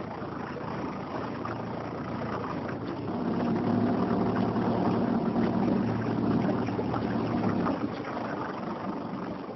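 Motorboat engine running with a steady hum, growing louder about three seconds in and easing off again near the end.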